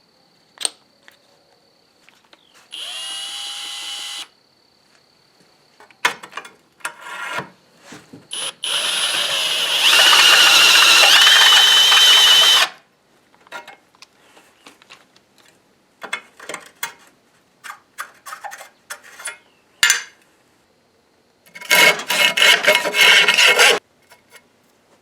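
A power drill turning a reamer to enlarge holes in a steel square-tube crossmember, run in three spells: a short one, a long loud one of about four seconds with a steady whine, and a shorter stuttering one near the end. Clicks and knocks of handling the tool and the work come in between.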